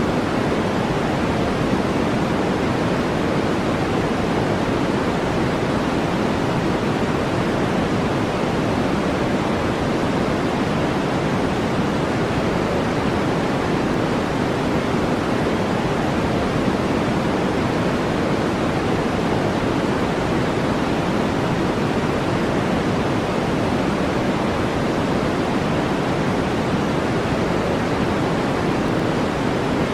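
Steady, unchanging synthetic noise of the brown-noise kind, with a deep, muffled hiss weighted to the low and middle range, played as a sleep and relaxation track.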